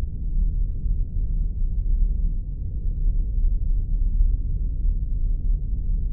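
Spaceship sound effect: a steady, deep rumbling drone sitting all in the low end, with faint crackles above it.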